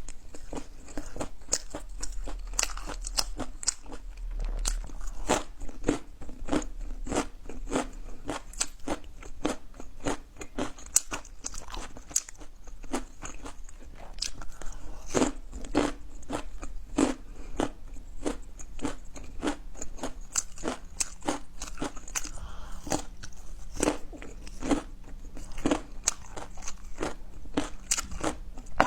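Close-up chewing of crunchy food: a long run of crisp crunches and bites, about two to three a second.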